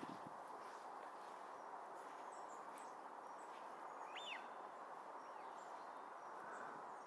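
Faint steady outdoor hiss with scattered distant small bird calls: brief high chirps throughout, and one clearer chirping call about four seconds in.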